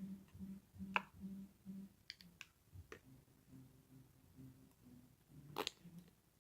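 Metal spoon working slime: soft sticky squishes with a few sharp clicks and pops, the loudest near the end.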